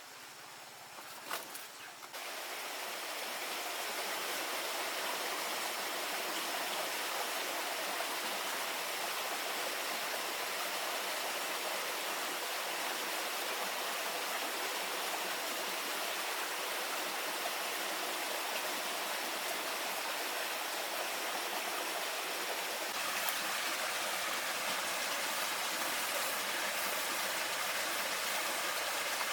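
Steady rushing, water-like noise that starts about two seconds in and builds over a couple of seconds, then shifts slightly in character near the end.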